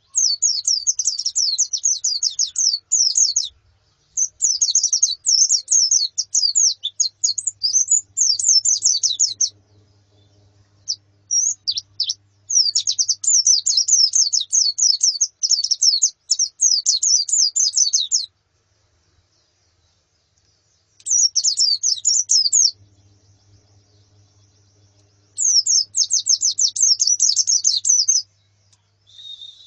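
White-eyes (pleci) chirping in fast runs of short, high notes, each run lasting a few seconds with short pauses between, five runs in all.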